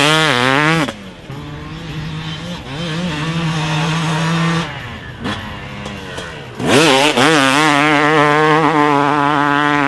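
2018 Yamaha YZ250X's single-cylinder two-stroke engine, breathing through a Pro Circuit pipe and silencer, being ridden hard. It revs high and drops off about a second in, holds a steady part throttle, and eases off around the middle. It then revs back up loud for the last few seconds, its pitch rising and falling as the throttle works.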